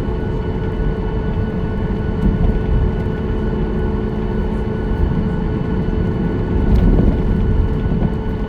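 Inside the cabin of a Boeing 737-9 MAX taxiing after landing: a steady low rumble with several held engine tones. A brief knock comes near the end.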